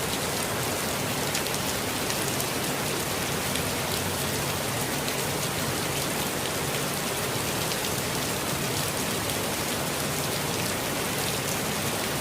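Steady rainfall, with the patter of many small drops landing on surfaces.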